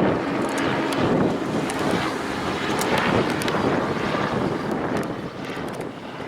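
Wind buffeting the microphone, mixed with the buzz of a small drone's propellers; it fades toward the end.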